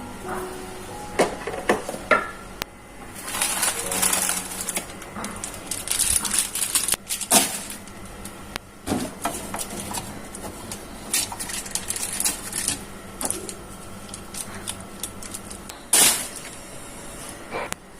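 Kitchen items being handled: containers and dishes knocking and clattering, with bursts of rustling or scrubbing between the knocks.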